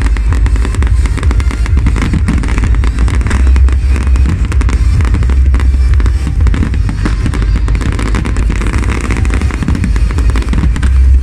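Fireworks going off in a dense barrage: rapid crackling and bangs from bursting shells and ground effects over a continuous low rumble.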